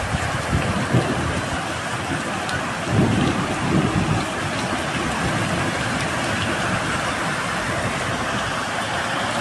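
Heavy storm downpour pelting down in a steady dense hiss flecked with small ticks, with a low rumble swelling about three to four seconds in.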